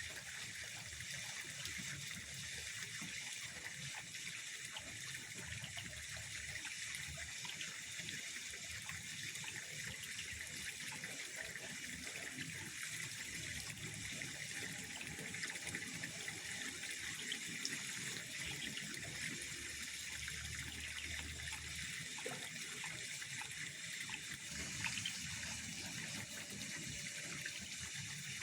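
Steady trickling of pond water, an even hiss of moving water without break.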